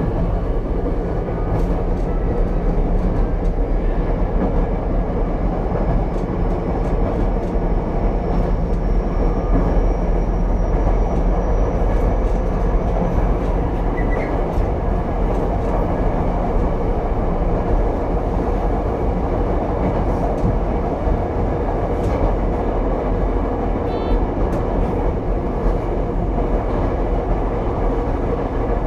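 Running noise of Ichibata Electric Railway car 7001, a one-car electric train, heard from inside the car as it travels between stations: a steady rumble of wheels and motors. A faint high whine rises slowly a few seconds in, and occasional rail-joint clicks come through.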